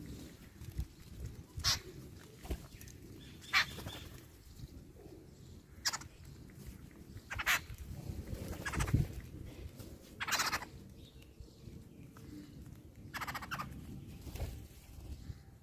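Domestic poultry calling: about seven short calls, one every two seconds or so, with a slightly longer one just past the middle.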